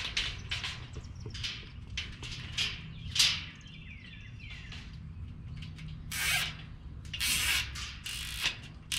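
Nylon zip ties being pulled tight against a metal mesh cart: a run of short ratcheting zips, then a few longer pulls about six and seven seconds in.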